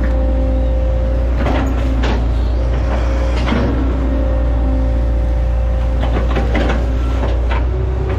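Hitachi ZX110 excavator's diesel engine running steadily under load with a steady hydraulic whine, broken by scattered sharp cracks and knocks, a couple close together around the middle and a quick cluster later on.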